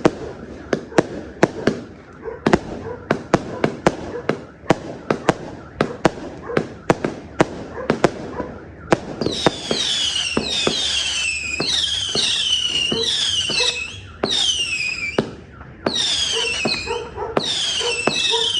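330-shot fireworks cake firing a rapid string of shots, about three a second. From about halfway, falling whistles sound over the shots, one after another, with a short break near the three-quarter point.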